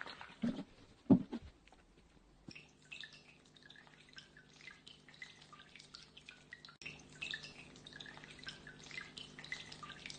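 Water trickling and dripping in a small homemade waterfall, with many quick high plinks over a steady low hum that starts about two and a half seconds in. A couple of knocks come first, the louder one about a second in.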